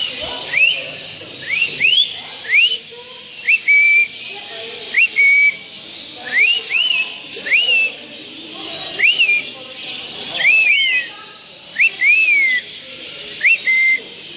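A caged bird giving short, loud whistles again and again, each rising sharply in pitch and some ending in a brief level note, over a steady high chatter of many other birds.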